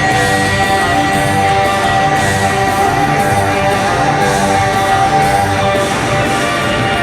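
Live rock band playing an instrumental passage, with one electric guitar note held long and steady over bass and drums.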